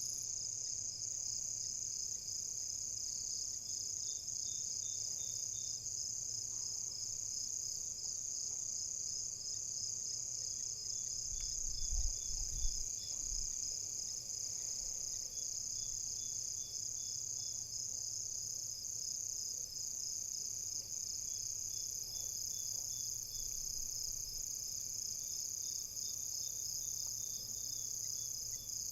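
A dense chorus of night insects, crickets, trilling steadily in a high, fast pulse. About twelve seconds in, a couple of low thuds rise briefly under the chorus.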